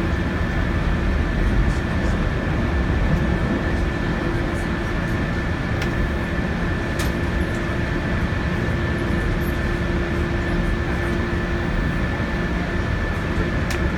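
Odoriko limited express train running at speed, heard from inside the carriage: a steady rumble of wheels on rail with two steady tones held over it and a few light clicks.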